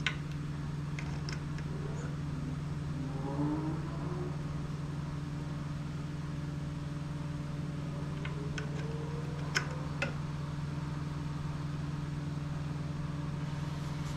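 A steady low hum runs throughout. Over it come a few sharp metallic clicks of hand tools on the lower unit as the water pump housing screws are tightened to torque, the loudest about ten seconds in.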